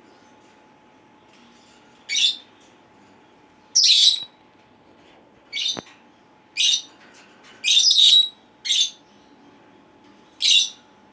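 Senegal parrots giving short, harsh screeching calls, about seven in all, spaced a second or two apart, over a faint steady hum.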